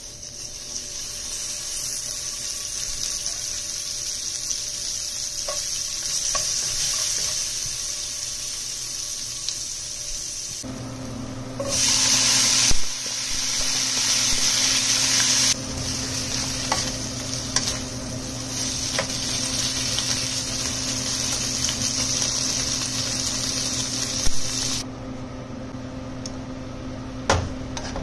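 Food sizzling and frying in a nonstick wok while a spatula stirs it. The sizzle swells sharply for about a second partway through, as beef, onion and green onion go into the pan. A steady low hum joins at about the same time, and there are a few sharp taps of the spatula on the pan near the end.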